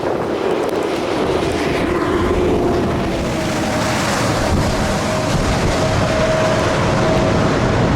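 Wind rushing over the microphone with a steady motor hum underneath; the hum's pitch steps up about three seconds in and then holds.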